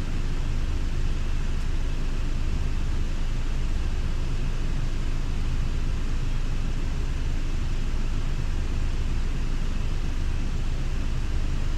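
Scania Irizar i6S coach's diesel engine running with a steady low rumble while the coach manoeuvres at low speed.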